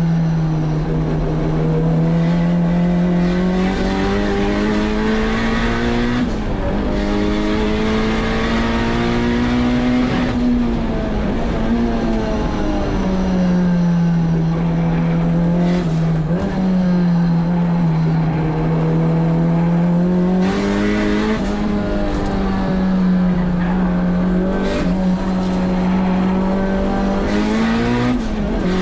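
Turbocharged K24 four-cylinder of a Honda S2000 driven hard on track. The revs climb and fall over and over, with a sharp break every four or five seconds as it shifts or lifts.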